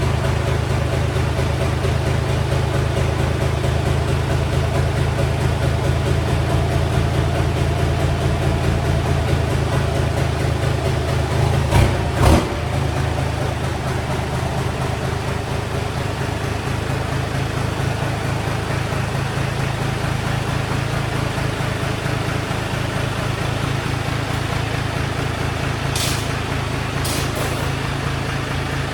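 Old pickup truck's engine running steadily with a deep low rumble. Two sharp knocks come about twelve seconds in, and a few short clicks near the end.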